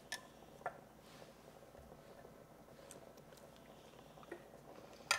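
Knife clicking twice on a wooden cutting board, then faint chewing of a firm, slightly underdone slow-cooked carrot piece, with a sharper click near the end.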